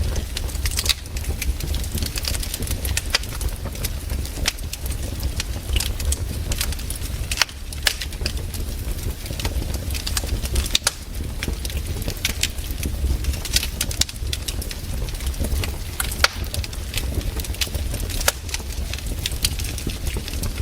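Wood campfire crackling: frequent irregular sharp snaps and pops over a steady low rumble.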